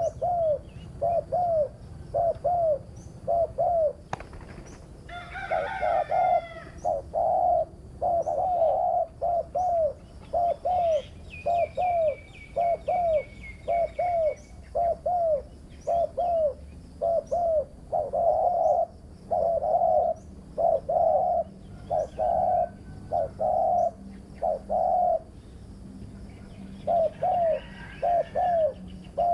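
Spotted dove cooing over and over in a steady series of short, rounded coos, a few each second. Brief higher chirps from other small birds come in now and then.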